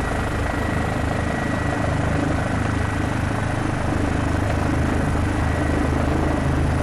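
Steady helicopter cabin noise: the engine and rotor drone without a break, with a thin steady whine above it.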